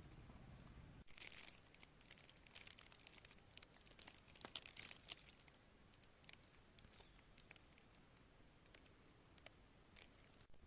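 Faint crackling and rustling of something being handled: a quick run of small sharp clicks for about four seconds, thinning to an occasional click.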